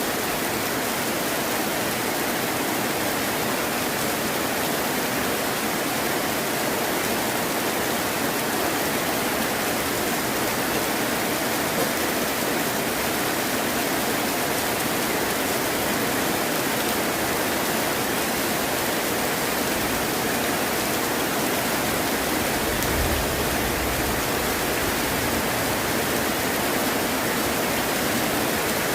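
Heavy rain falling steadily, a dense even hiss. About two-thirds of the way through, a brief low rumble of distant thunder swells and fades.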